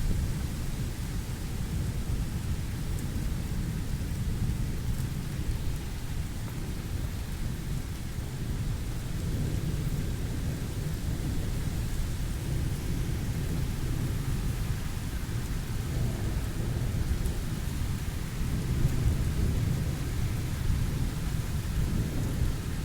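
Thunder rumbling through a thunderstorm, swelling and fading a few times, over a steady hiss of rain.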